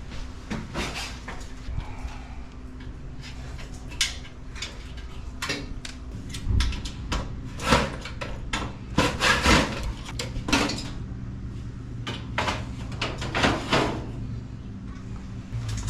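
Irregular clanks, knocks and rattles of sheet-metal dryer parts and tools being handled during repair work, busiest in the middle of the stretch, over a faint steady low hum.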